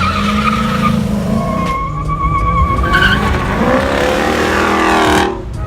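Car tyres squealing in a wavering high tone, then an engine revving up and rising in pitch, cut off abruptly near the end.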